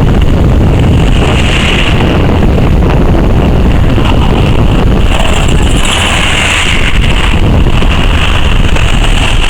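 Convoy lorries passing, a loud, steady low engine rumble with wind buffeting the microphone and a hiss that swells and fades every few seconds.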